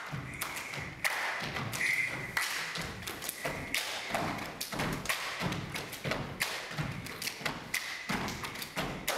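Irregular thumps and taps, about one to two a second, of performers' feet on a stage floor, with faint music underneath.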